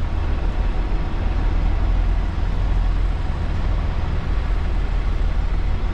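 A semi-truck's diesel engine running steadily at low speed with a deep rumble.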